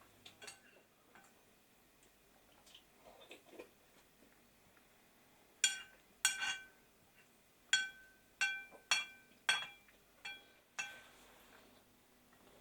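A spoon or other utensil clinking against a dish, about eight sharp strikes in the second half, each ringing briefly on the same few pitches, after a few softer knocks and rustles.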